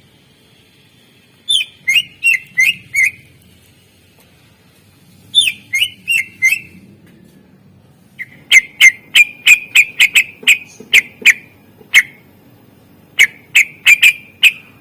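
Cucak ijo (green leafbird) singing in fast phrases of sharp, downward-slurred notes: four bursts of about four to fourteen notes each, the longest a rapid run in the middle, with short pauses between.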